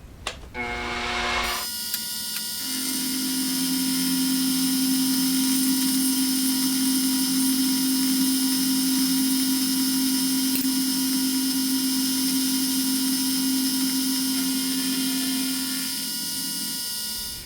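Small milling machine's spindle winds up about a second in, then a 10 mm four-flute carbide end mill cuts a 30 thou groove in cold-rolled steel with a steady, high-pitched ringing. The ringing is resonance from the cutter's long stick-out in its collet, not a fault of the cutter. The cut ends near the end.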